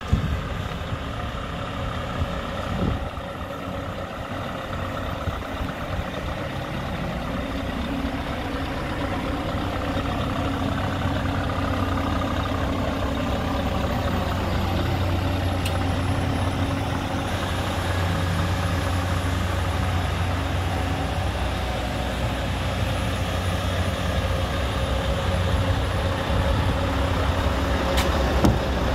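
Scania R580 Next Gen truck's 16-litre V8 diesel running steadily at idle, a low even rumble that swells slightly over the first several seconds, with a couple of brief knocks.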